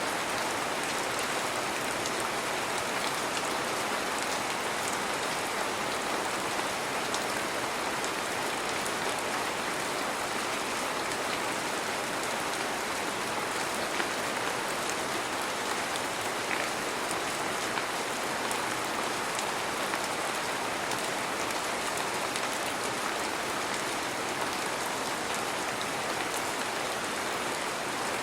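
Heavy rain falling steadily: an even, unbroken hiss of downpour with faint scattered drop ticks.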